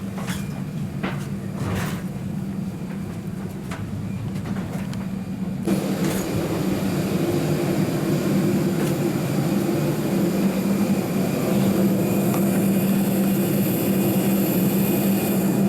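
Steady hum and rumble of an airliner cabin's ventilation before departure, with a low drone throughout. About six seconds in, a louder hiss of airflow starts abruptly and holds steady.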